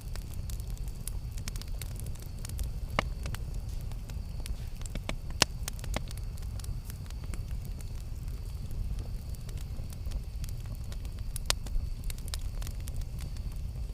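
Campfire burning with a steady low rumble and irregular sharp crackles and pops of burning wood, a few louder pops standing out.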